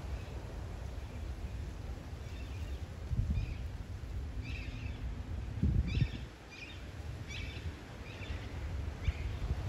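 A bird chirping over and over, short calls about once or twice a second starting a couple of seconds in, over a low rumble of wind on the microphone with a couple of stronger gusts.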